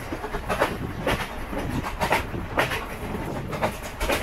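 Passenger train running along the track: its wheels clack over the rail joints about twice a second over a steady rumble and rush of air.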